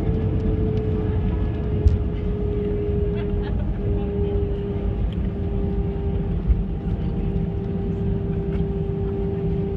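Airbus A320 passenger cabin noise: a steady low rumble of the jet engines and airframe with a held whining tone, broken by two brief knocks.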